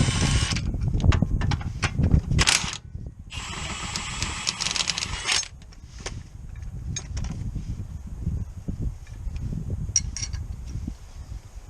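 Tools at work on a car: two bursts of rapid mechanical clicking, one at the start and one about three seconds in lasting a couple of seconds, with scattered sharp metal clinks between and after.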